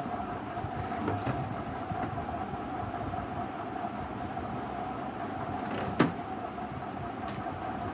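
A steady mechanical hum with a constant mid-pitched tone, broken by one sharp click about six seconds in.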